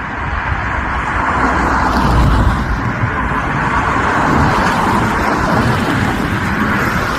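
ATR 72-600's twin turboprop engines and propellers, a steady droning that slowly grows louder as the airliner approaches, with gusty wind buffeting the microphone.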